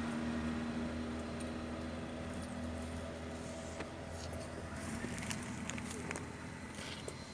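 Steady low hum of a running engine, fading slowly, with a few faint clicks and rustles about five to seven seconds in.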